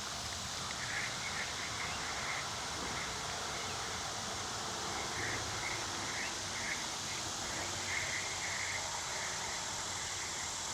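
Steady outdoor background hiss, with faint, irregular short chirps scattered through it.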